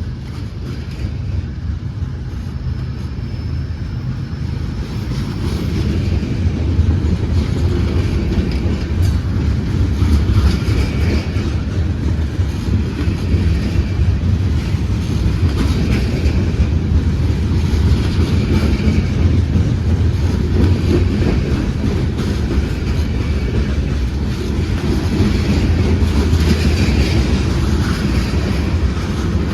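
Freight train rolling past, its cars passing in a steady noise that grows louder about six seconds in and then holds.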